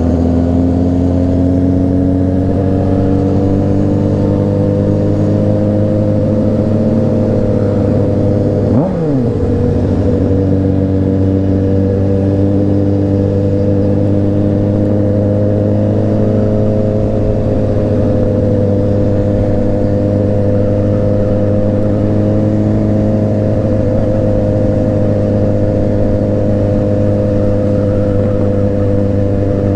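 A Honda CBR600RR's inline-four engine running steadily at cruising speed, with a brief falling sweep about nine seconds in.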